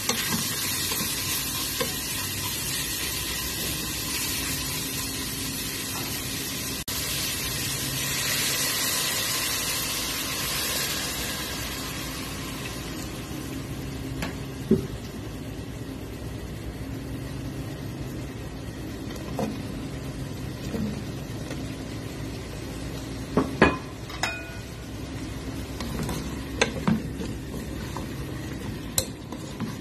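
Chicken pieces sizzling in a pot as they are stirred with a wooden spatula; the sizzle is loudest for the first dozen seconds, then dies down. A few sharp knocks come in the second half.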